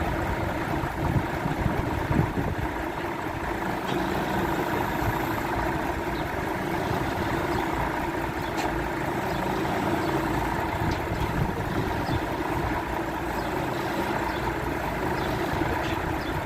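Boom truck's engine running steadily at an even speed, with a few faint clicks.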